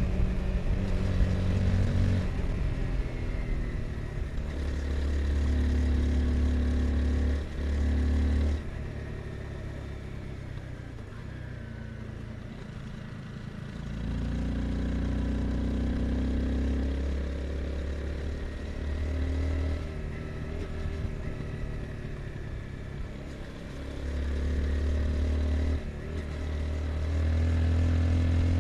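Honda CBR 250R's single-cylinder engine under way, alternating between pulling on the throttle and backing off, with brief gaps in power for gear changes about a third of the way in and again near the end. A quieter stretch of lower engine note around the middle, where the throttle is eased.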